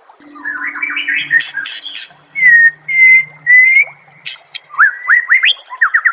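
White-rumped shama (murai batu) singing: a twittering run, then three loud, clear whistled notes in the middle, then a run of quick rising sweeps near the end.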